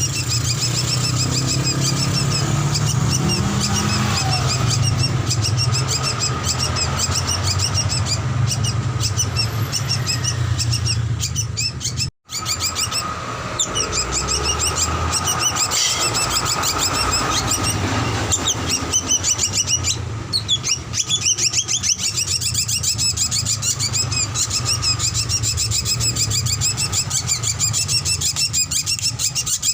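Drongo (srigunting) song: a dense run of rapid, repeated chirps and whistles, played as a birdsong training recording. A low hum lies under the first part, and the sound cuts out for a moment about twelve seconds in, where the recording is spliced.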